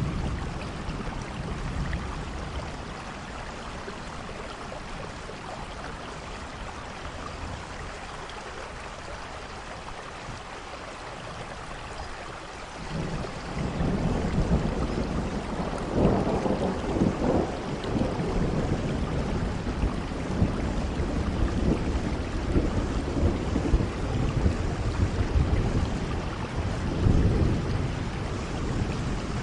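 Steady rain falling, with a long, low rumble of thunder that starts a little under halfway through and swells loudest twice.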